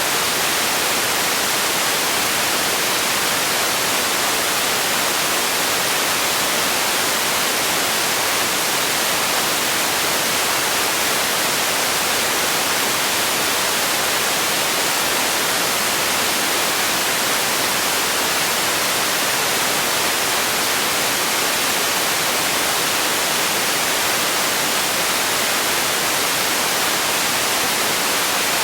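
Steady relaxation noise for sleep: an even, unchanging hiss, strongest in the highs with little bass.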